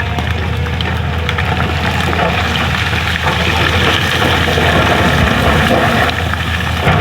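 Excavator's diesel engine running steadily, with scattered crunching and clattering of broken road material as the bucket digs.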